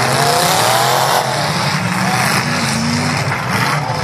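Demolition derby cars' engines racing under load as the wrecks push against each other. One engine revs up and back down in the first second or so, and another climbs slowly in pitch a couple of seconds in.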